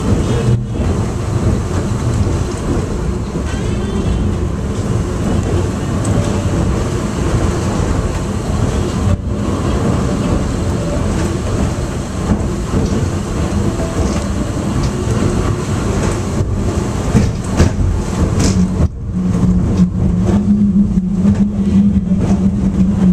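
Airport underground people-mover train car running between stations: a steady rumble and rattle of the car on its track. A steady low hum comes in about three-quarters of the way through, with scattered clicks around it.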